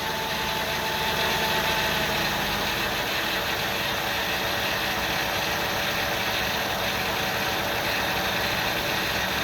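2000 Ford Windstar's 3.8-litre V6 idling steadily with a rough, heavy shake. The cause is still unfound: the owner reports no vacuum leaks and no misfires on the scope.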